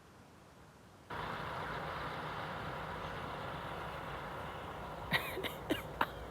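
A steady vehicle engine hum starts abruptly about a second in and runs on; a few sharp taps come near the end.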